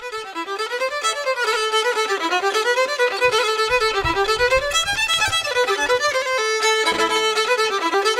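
Solo fiddle music: a quick tune of fast running notes that rise and fall, with one longer held note near the end.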